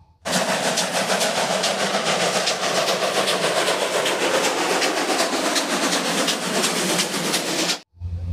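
Steam locomotive working along the track: a steady, dense rush of steam and running noise with fine rapid beats. It starts suddenly just after the start and cuts off abruptly near the end.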